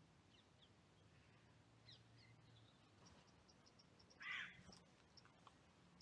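Faint outdoor birdsong: scattered high chirps and a quick run of short high notes. A single harsh crow caw comes a little past the middle and is the loudest sound.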